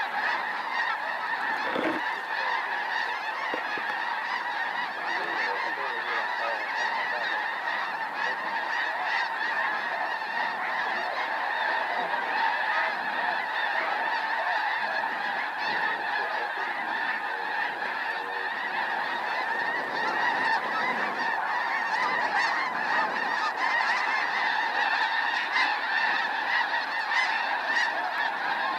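A dense, continuous chorus of snow geese calling, with many birds' high honks overlapping without a break.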